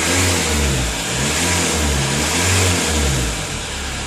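VW Passat B3's 1.9 TDI four-cylinder turbodiesel revved up and let fall back repeatedly, then settling to a steady idle near the end; the owner finds the engine running harshly.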